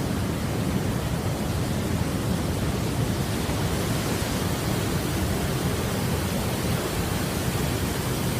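Tatai Waterfall's falling water rushing with a steady, heavy roar.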